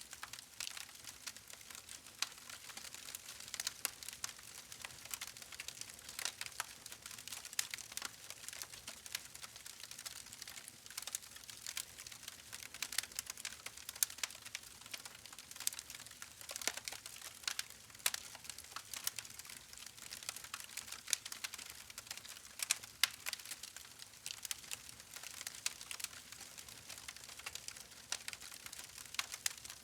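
Wood fire crackling steadily: many small irregular pops and snaps from burning logs over a soft hiss.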